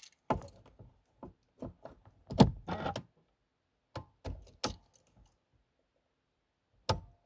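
Car keys jangling, with a series of sharp clicks and knocks; the loudest comes about two and a half seconds in and is followed by a brief jingle.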